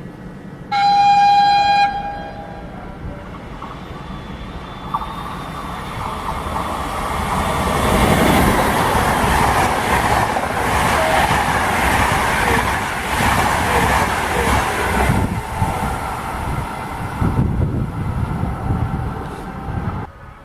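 A passing train sounds one horn blast of about a second near the start. Its rolling noise then builds to a peak in the middle, eases off, and cuts off suddenly near the end.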